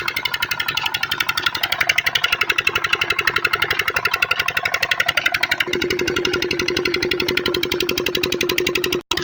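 Diesel engine running with a rapid, even knocking beat. A bit more than halfway through, the sound changes and a steady hum joins the beat. Near the end it breaks off for an instant.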